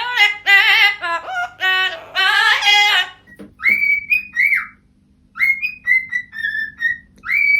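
A parrot singing in a wavering, voice-like tone for about three seconds, then whistling a run of short notes that rise and fall at their ends.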